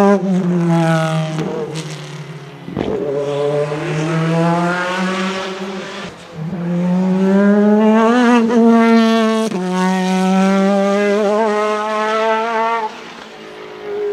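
Mercedes-Benz CLK GTR's naturally aspirated V12 revving hard, its pitch climbing and falling. The note is broken by abrupt cuts at several gear changes of its straight-cut sequential gearbox, with a sharp crack at the first shift about three seconds in.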